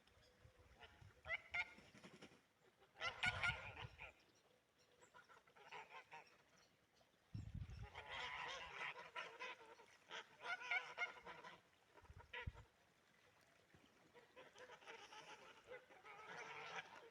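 Geese honking in several bouts of repeated calls, faint, with a couple of low rumbles underneath.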